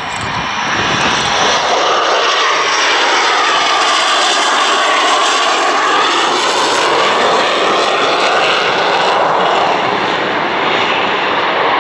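Twin Rolls-Royce Avon turbojets of a de Havilland Sea Vixen flying a low pass, a loud, steady jet roar whose tone sweeps down and back up as the aircraft goes by.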